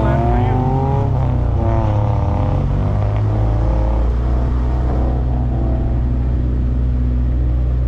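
Rallycross car's engine accelerating hard, its pitch climbing, dropping at a gear change about a second in, climbing again, then running steadier under load.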